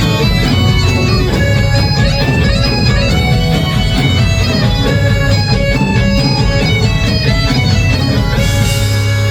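Loud live rock band music: a sustained, reedy lead line over heavy bass and drums, with a cymbal crash near the end as the band holds a low note.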